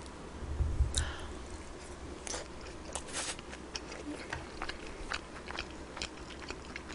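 Close-miked eating sounds: a person chewing and biting food, with many small sharp clicks and light crunches scattered through.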